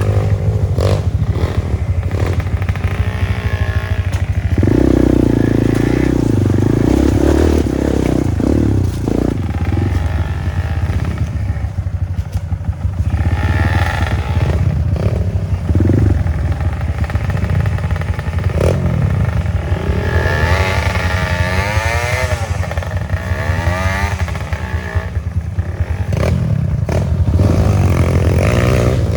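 Trail motorcycle engine running hard on a rough dirt track, its revs rising and falling again and again, with the bike clattering and rattling over the bumps.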